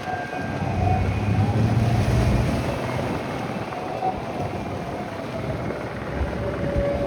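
Steady motor drone with a faint wavering whine, under a rush of wind noise.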